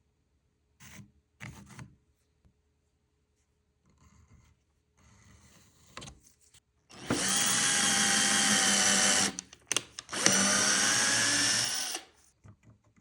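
Power drill running in two bursts of about two seconds each, with a short pause between them. A few light knocks come a few seconds before.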